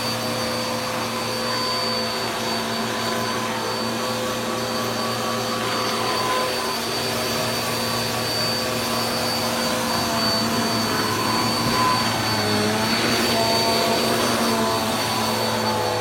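Electric carpet-cleaning machine (a 'turbo' carpet vacuum) running continuously, a steady motor hum with a high whine, its pitch wavering slightly in the last few seconds as it is pushed over the carpet.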